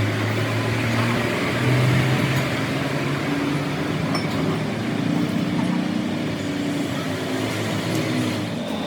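Workshop machinery running steadily: a motor hum with slight shifts in pitch over a mechanical noise.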